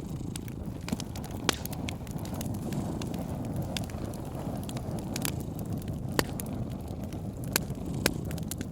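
Wood fire crackling: scattered sharp pops and fainter ticks over a steady low rumble.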